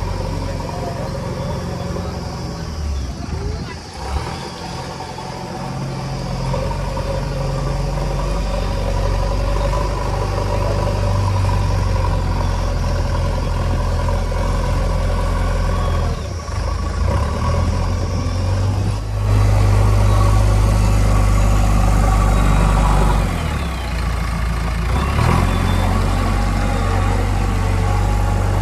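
Heavy diesel engine running steadily, its note and loudness shifting several times as if under load, loudest for a few seconds in the second half.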